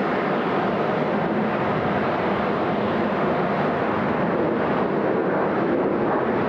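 Steady jet engine noise from a Southwest Boeing 737 MAX 8 arriving on the runway, its CFM LEAP-1B engines heard as an even roar that holds at one level.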